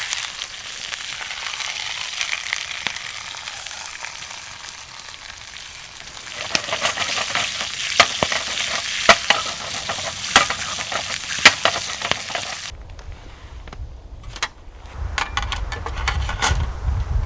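Food sizzling over a wood fire, a steady hiss that grows louder about six seconds in, with sharp crackling pops. About thirteen seconds in it cuts abruptly to a quieter low rumble with scattered snapping clicks.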